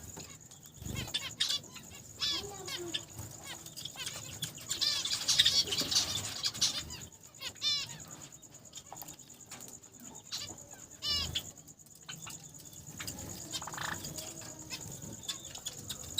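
Small cage finches chirping, with many short chirps in quick runs, the busiest a few seconds in, mixed with brief fluttering of wings.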